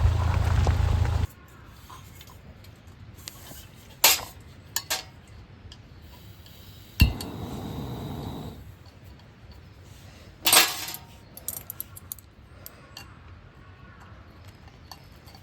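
A steady low rumble that cuts off abruptly about a second in, then metal camp cookware and gear handled: a few sharp clinks and clanks, a dull thump with brief rustling, and small ticks.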